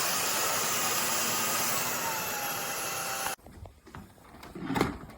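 SunSare cordless stick vacuum cleaner running with a steady rushing whine, which stops abruptly about three seconds in. A few quieter knocks and handling noises follow.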